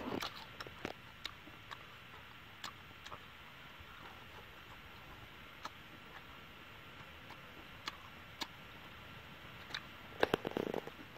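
A person chewing and smacking while eating with his fingers: faint, sparse clicks through most of it, with a denser run of smacking clicks at the very start and again about ten seconds in.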